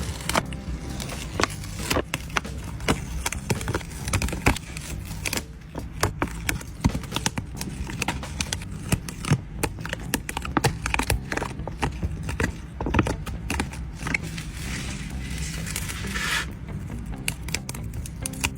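Irregular taps, clicks and crinkles of sticker sheets and their packaging being handled, with a longer rustle about fifteen seconds in.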